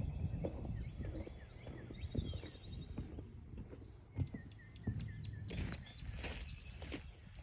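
Footsteps along a forest trail, irregular soft thuds, with several songbirds chirping and whistling around; a flurry of quick high chirps comes about five and a half seconds in.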